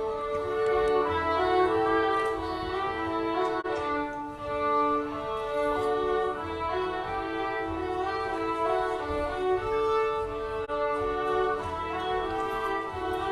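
Folk-dance music on fiddle: a lively tune played over a steady held note.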